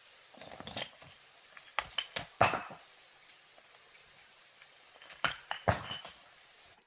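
Irregular clinks and knocks of hard objects in a few small clusters, the loudest about two and a half seconds in.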